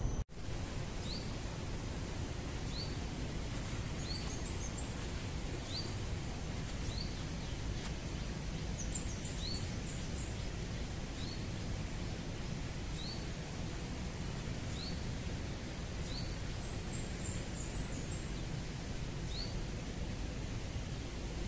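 Outdoor park ambience: a steady low rumble, with a bird repeating a short rising chirp about once a second and a few brief bursts of higher twittering.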